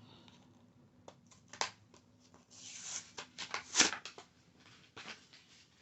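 Close-up handling of a small toy fingerboard: a string of light taps and clicks with a brief scratchy rustle partway through, the loudest tap about four seconds in.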